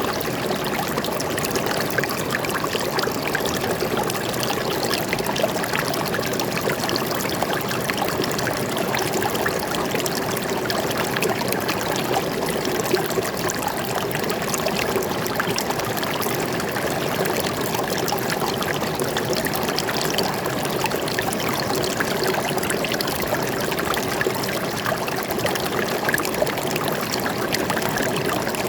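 Water flowing and trickling steadily over rocks in a small forest stream, an even rushing with small splashes throughout.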